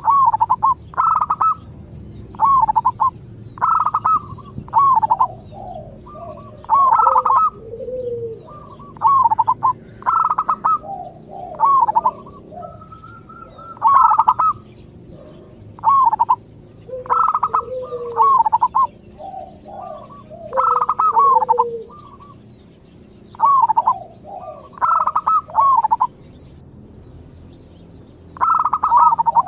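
Zebra doves cooing: repeated groups of short, clear high notes, each group trailing into lower, falling coos, with a quick run of rapid notes near the end. A faint low hum sits underneath.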